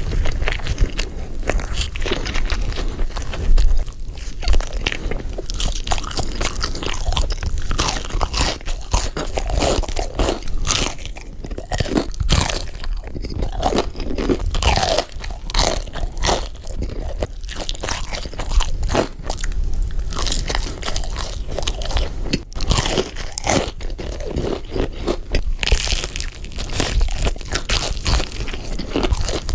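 Close-up eating sounds: repeated crunchy bites and chewing of crispy Popeyes fried chicken, with irregular crackles throughout.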